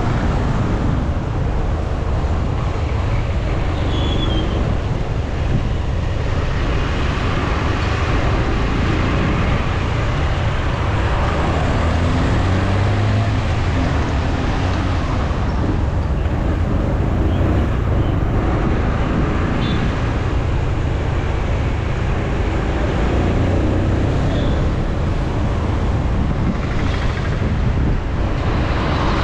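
Motorcycle riding at a steady pace: the engine runs under a constant rush of wind buffeting the action camera's microphone, with road and traffic noise.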